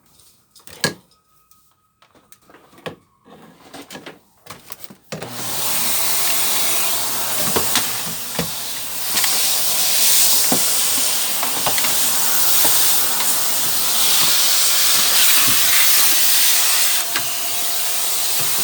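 A few handling clicks and knocks, then about five seconds in a Shark vacuum cleaner switches on and runs with a loud, steady rushing hiss, its tone shifting slightly around fourteen seconds.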